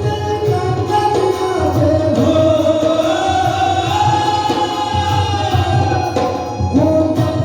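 Devotional bhajan: a singer holds long, gliding sung notes over a steady drum beat with tabla-like percussion.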